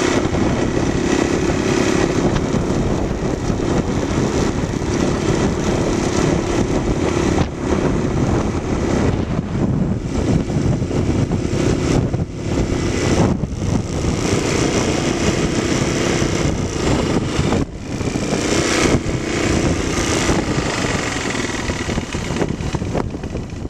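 Stearman biplane's radial engine running steadily, with a pitched hum that wavers and several brief dips in level.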